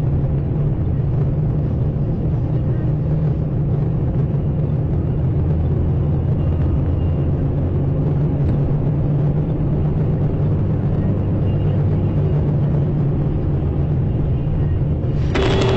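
A car driving, giving a steady low drone of engine and road noise. Near the end a sharper, brighter noise sets in.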